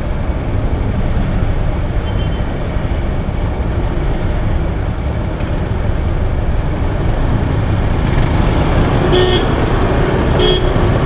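Steady rumble of traffic and road noise while moving through city streets, with two short vehicle-horn toots near the end, about a second and a half apart.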